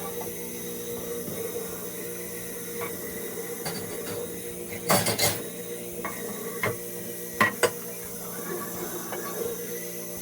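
A few sharp clinks and knocks, a cluster about halfway through and three more soon after, over a steady background hum.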